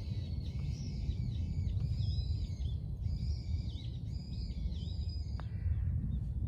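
Birds singing a repeated arched chirping phrase over a steady low wind rumble. About five seconds in comes one faint click: a putter striking a golf ball on a short putt.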